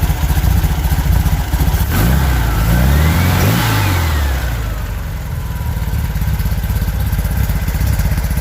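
An engine running at a rough, pulsing idle, revved once about two seconds in and falling back to idle a couple of seconds later.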